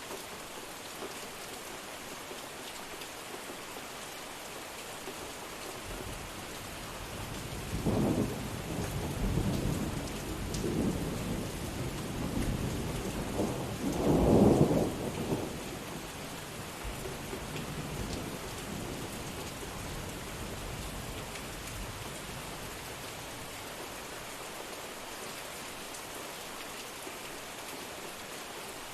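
Steady rain with a long roll of thunder starting about six seconds in. The rumble swells twice, loudest around the middle, then dies away, leaving the rain alone.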